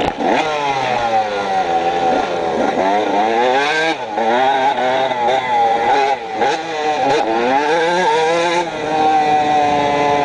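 Dirt bike engine under way, its pitch climbing and dropping again and again as the throttle is worked and it moves through the gears.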